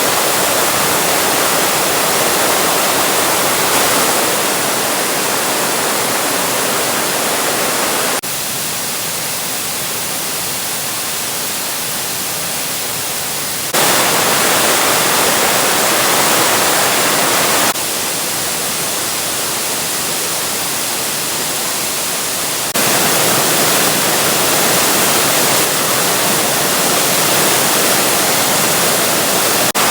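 Waterfall: a steady rush of falling water, with the level and tone jumping abruptly several times.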